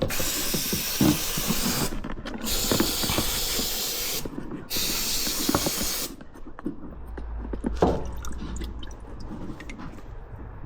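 Three bursts of pressurised spray hissing, each a second or two long, blowing off the cleaned balls of an ATV axle's CV joint; small clinks of the parts being handled follow.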